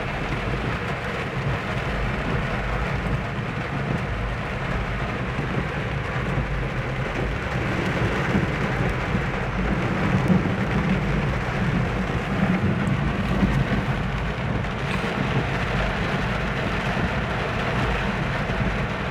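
Steady rumble of a vehicle driving in heavy rain, with a continuous hiss of rain and spray over it.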